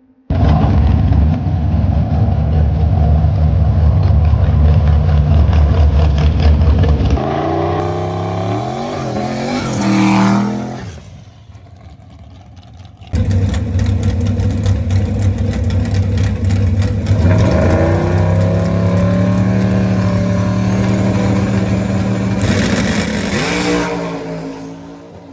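Turbocharged LS V8 drag car engine, loud and held at a steady pitch, then rising as the car accelerates away before fading. After a short lull it cuts back in at a steady pitch and climbs again twice before fading out.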